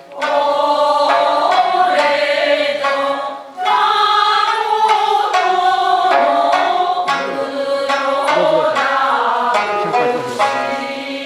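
A group of voices singing a Japanese min'yō folk song in unison, with shamisen accompaniment plucking steadily beneath; the singing breaks briefly about three and a half seconds in, then carries on.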